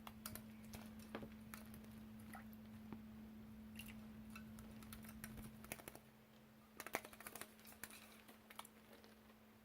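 Faint, scattered ticks and taps from a budgie bathing in a shallow water bowl, with a cluster of louder ones about seven seconds in. A steady low hum runs underneath.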